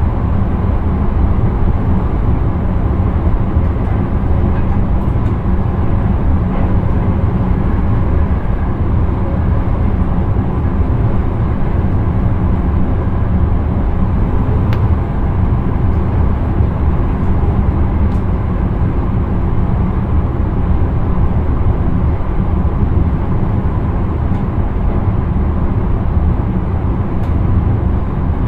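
Intercity train running steadily, heard from inside the driver's cab: a constant low rumble of wheels and running gear on the track, with a few faint ticks.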